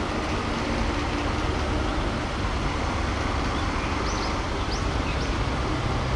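Large police vehicles driving past in a motorcade: a steady low engine rumble and road noise, with a few brief high chirps about four to five seconds in.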